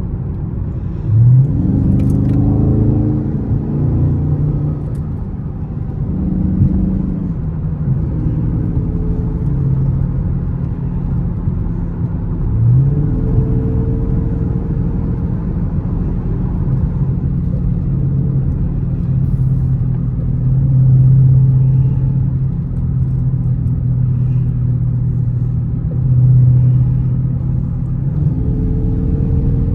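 Dodge Charger Scat Pack's 6.4-litre HEMI V8 under way, revving up sharply about a second in and again near the middle, then holding a steady drone over road noise.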